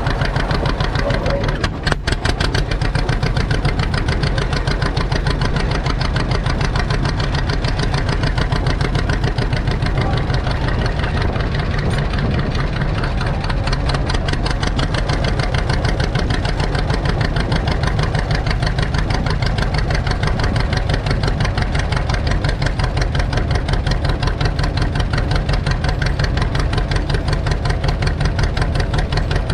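Tractor engine running at a steady speed, with rapid, even firing pulses.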